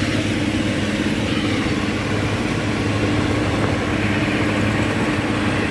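A motor engine running steadily, with an even low hum and no change in speed.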